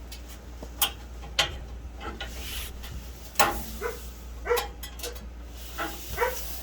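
A few sharp clicks of small plastic parts and tools being handled, mixed with several short, pitched yelps like a dog's.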